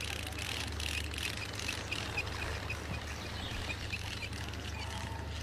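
Outdoor river ambience: a steady low rumble under a quick run of short, evenly spaced bird chirps in the first half.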